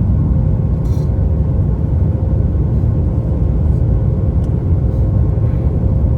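Jet airliner cabin noise: a steady low rumble of the engines and rushing air, with a faint steady hum and a faint click about a second in.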